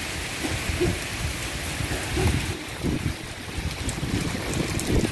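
Rain falling steadily on a dirt yard and tiled porch, with wind gusting against the microphone several times.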